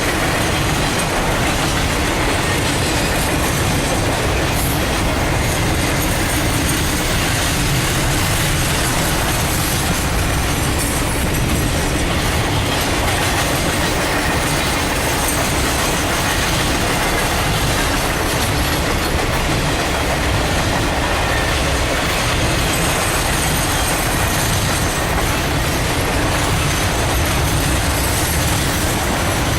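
Train cars rolling steadily past at trackside, a continuous loud rumble and clatter of wheels on rail.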